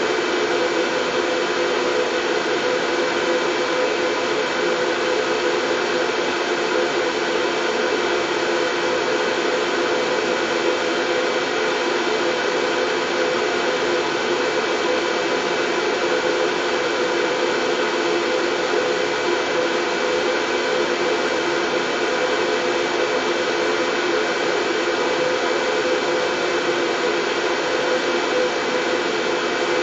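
Steady white noise for soothing a baby, an even rushing hiss with a low hum in it and no change at all.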